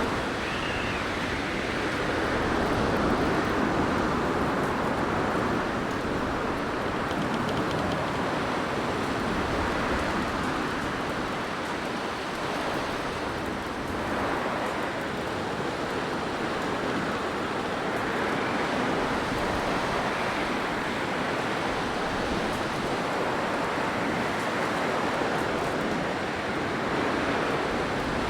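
Blizzard wind blowing as a steady rushing noise that swells and eases slowly.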